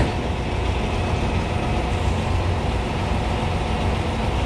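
Concrete pump truck running steadily: an even, low engine drone with a faint held hum above it.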